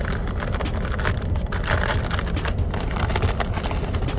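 Steady low rumble of an idling truck engine, with rapid crinkling and rustling of food packaging being handled.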